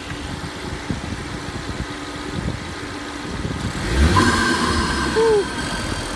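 2016 Ford Focus RS's turbocharged 2.3-litre four-cylinder idling, then revved about four seconds in, the intake sucking in air as the revs rise before easing back.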